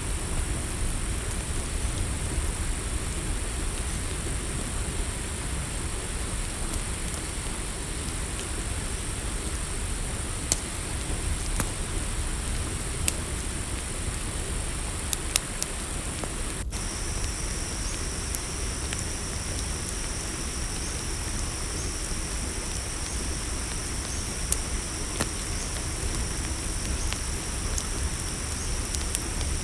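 Campfire crackling, with scattered sharp pops over a steady low rumble, under a continuous high-pitched cricket chorus. About 17 seconds in, a second, lower-pitched insect trill joins and holds steady.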